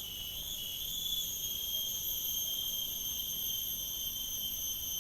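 Chorus of night insects: a continuous, high-pitched shrill made of several steady tones layered together, with a slight wavering in the lowest tone during the first second.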